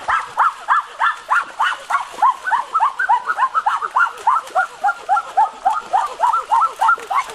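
A chorus of animal calls: many short, arched cries, several a second, overlapping one another.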